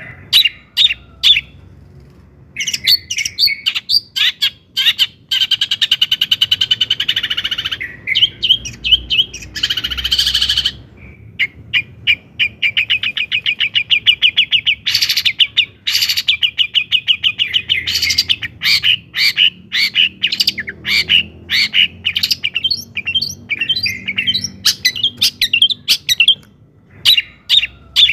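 Long-tailed shrike (cendet) singing a loud, varied chattering song. It mixes rapid trills of quickly repeated notes with sharp separate call notes, with a couple of brief pauses near the start and end.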